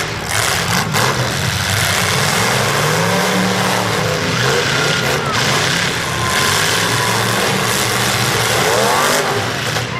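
Demolition derby cars' engines running hard and revving up and down, several at once, over a steady wash of noise.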